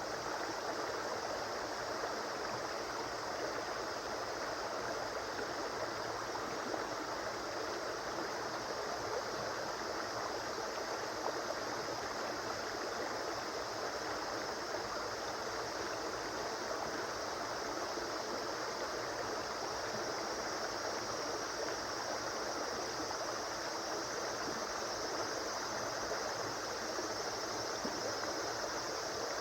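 A river flowing, a steady even rush of running water with no change.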